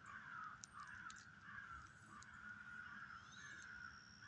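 Faint outdoor background: a continuous, wavering mid-pitched drone with a few light clicks.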